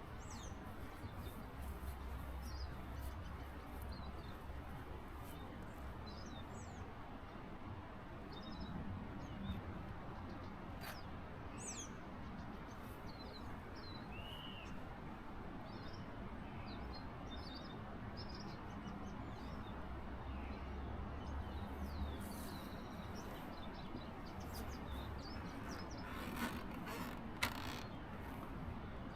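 Quiet outdoor ambience: scattered short bird chirps over a steady low hiss, with a faint low hum that comes and goes.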